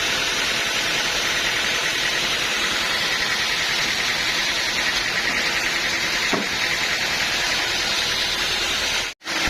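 Sawmill machinery running steadily, an engine-driven saw with a loud, even hissing noise and a faint whine. The sound drops out completely for a moment near the end.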